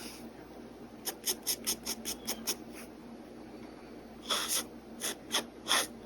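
Pen nib scratching across paper in quick short strokes: a run of about seven in a burst, a pause, then another run of about five.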